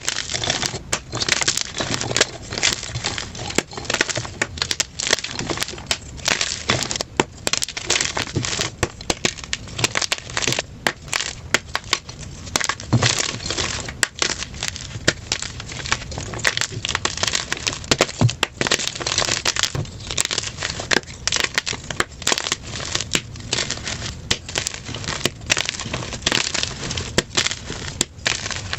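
Blocks of plain gym chalk crushed by hand: a dense, continuous run of crunching and crackling, played back at double speed.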